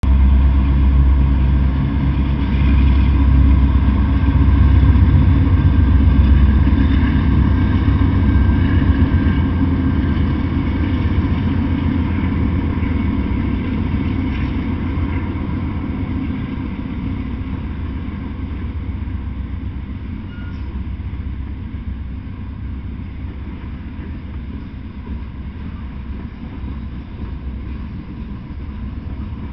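A Norfolk Southern freight train passing: two diesel locomotives running, loudest about five seconds in, then the sound grows steadily fainter as the open hopper cars roll by.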